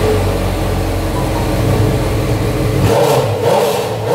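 Honda CB1000's inline-four engine running just after being started, with a change in its note about three seconds in.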